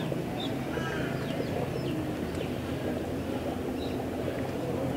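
A few short, faint bird calls scattered over a steady low hum.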